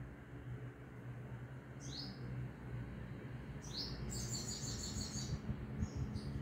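A small bird chirping in short high calls: one about two seconds in, a quick run of chirps around four to five seconds, and another near the end. A steady low hum runs under them.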